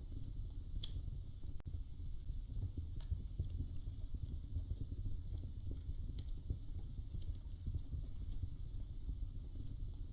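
Wood fire crackling in a fireplace: a steady low rumble with scattered sharp pops and snaps at irregular moments.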